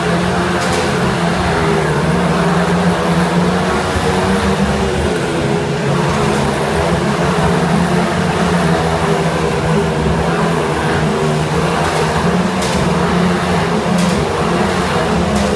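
Motorcycle engine running at steady high revs as it rides loops inside a steel globe of death, the pitch holding nearly constant throughout.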